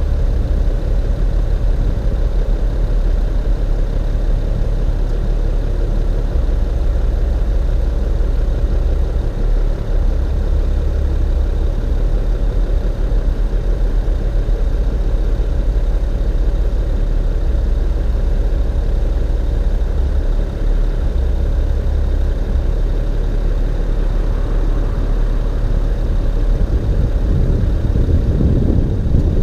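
BMW E39 540i's 4.4-litre V8 exhaust running steadily at low revs, with a deep, even note. The revs begin to rise slightly near the end.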